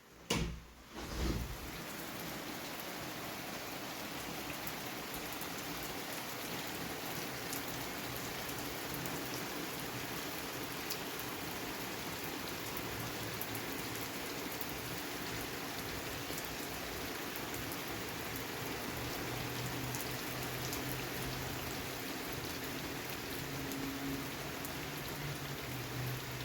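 Heavy rain falling steadily in a downpour, as an even hiss. It is preceded by two sharp thumps in the first second or so.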